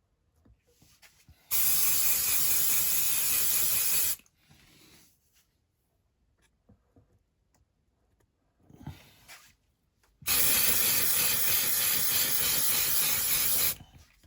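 Aerosol can of white primer spraying in two steady bursts of about two and a half and three and a half seconds, with a few faint handling knocks in the pause between.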